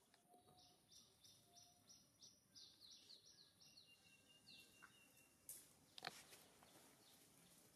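Faint bird song: a fast run of short, high notes, each sliding down, about three a second, then one held high note. Two faint sharp knocks follow a little past halfway.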